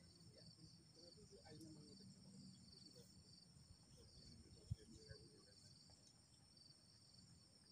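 Faint insects chirring in a steady high-pitched pulsing chorus, with a single sharp click about four and a half seconds in.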